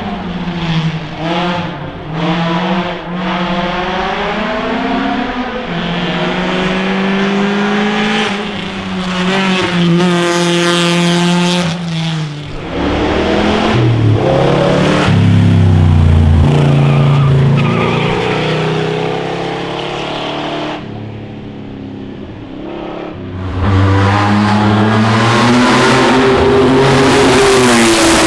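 Classic racing car engines revving hard and shifting up through the gears as the cars accelerate past. The sound falls away about three-quarters of the way in, then rises loud again.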